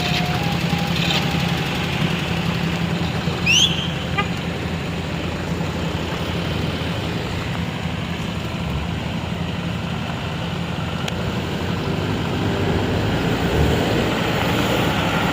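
A motor vehicle's engine running steadily, with a short rising squeal about three and a half seconds in.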